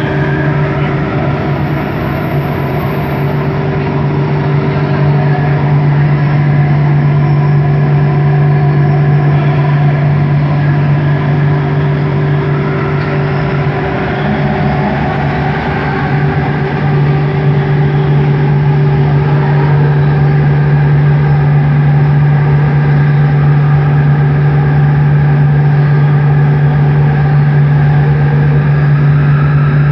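Bombardier Innovia ART 200 metro train's linear induction motors humming while the train runs, heard from inside the car: a steady low hum with a fainter higher tone over rolling noise. The hum fades for several seconds, then comes back strong.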